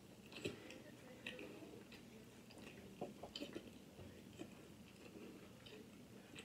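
Faint chewing of breaded fried food, with scattered soft mouth clicks and smacks that cluster about three seconds in.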